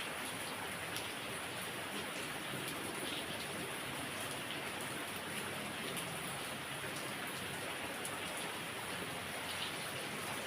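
Heavy rain falling steadily, an even hiss with scattered sharp drop ticks on surfaces.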